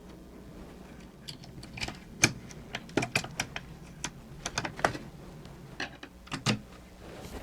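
Irregular sharp clicks and taps of small plastic gearbox parts being handled and fitted together, about a dozen over several seconds.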